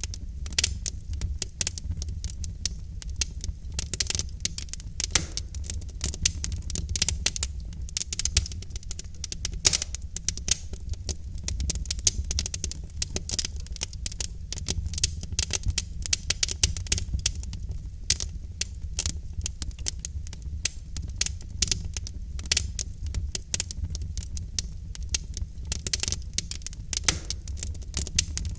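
Wood fire in a fireplace crackling steadily: dense, irregular snaps and pops from the burning logs over a low, even rumble of the flames.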